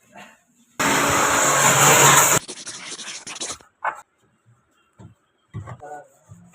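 A burst of pressurised gas hissing from a refrigeration line for about a second and a half, then a fainter hiss that cuts off about a second later; a few short knocks follow.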